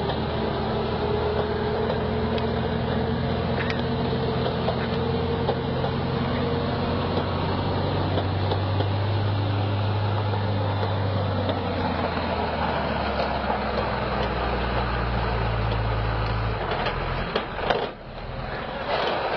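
Heavy truck engine running steadily under way, its pitch drifting slowly up and down. It cuts off abruptly near the end and is replaced by different vehicle noise.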